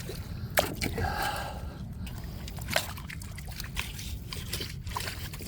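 Wet tidal mud squelching and sloshing, with a few sharp clicks and taps.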